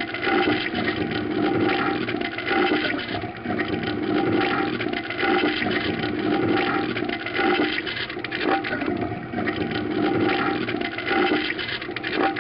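Water rushing and gurgling like a toilet flushing, swelling and easing roughly once a second.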